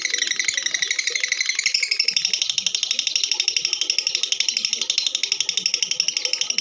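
Female lovebird singing one long unbroken chattering song: a rapid stream of high chirps, many a second, with the pitch moving higher about two seconds in.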